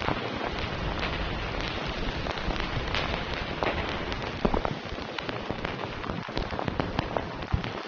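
Steady rain falling, with many close drops striking a surface as distinct taps, a few louder ones in the second half.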